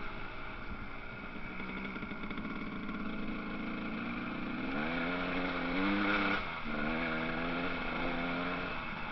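Motocross motorcycle engines running. About five seconds in, one bike revs up in a rising whine, which is the loudest part. It drops back abruptly at about six and a half seconds and then holds a steadier pitch.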